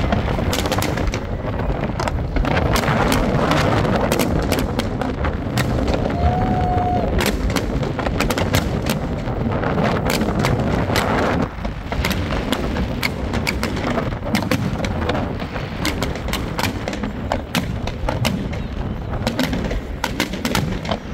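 Fireworks display: a rapid, unbroken run of bangs and crackles from aerial shells bursting, with a brief dip in loudness a little past halfway.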